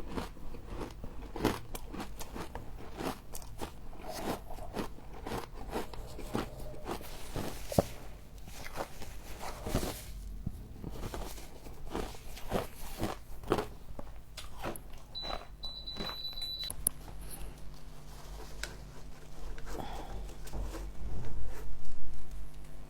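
Frost being bitten and chewed close to the microphone: irregular crisp crunches, one after another. A brief thin high beep sounds about two-thirds of the way through.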